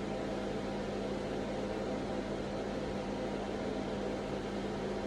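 A steady hum with an even hiss, unchanging throughout: background noise of a small room with a machine running.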